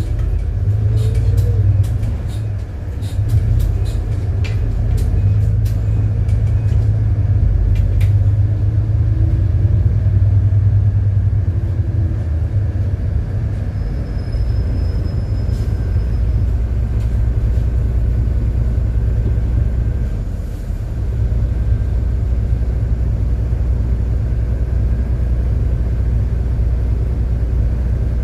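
City bus driving between stops, its engine a steady low rumble. Sharp rattling clicks come through the first several seconds, and the rumble eases briefly twice, once early and once about two-thirds of the way through.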